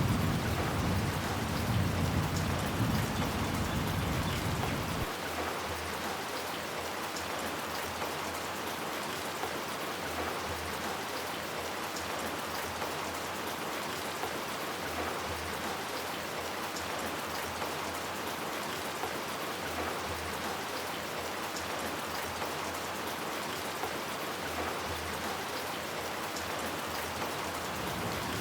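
Steady rain falling, an even hiss of drops on hard surfaces. A low rumble of thunder carries through the first few seconds and cuts off suddenly about five seconds in.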